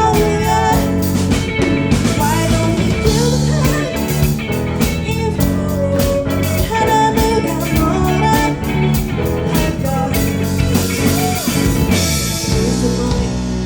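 Live rock band playing, with electric guitar over bass and a drum kit.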